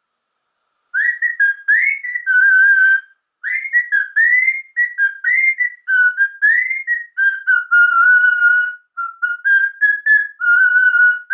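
Whistling: a run of short whistled notes that slide up and warble around one pitch, in phrases with brief breaks, starting about a second in.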